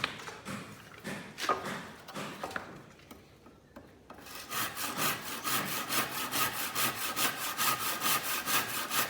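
Handsaw cutting a wooden plank: a few scattered knocks of wood, then from about four seconds in quick, even back-and-forth sawing strokes.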